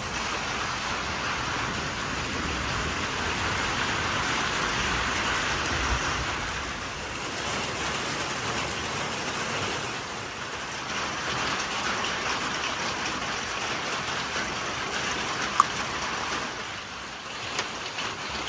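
Steady rain falling, an even hiss with one sharp click a few seconds before the end.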